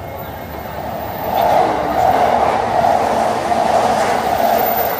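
Electric commuter train running on the rails, a steady rushing rumble that swells about a second and a half in and stays loud.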